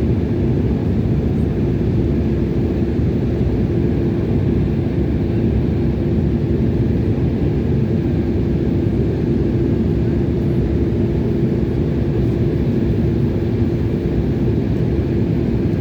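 Steady roar of a passenger airliner's engines and airflow heard inside the cabin in flight, with a constant low hum that does not change.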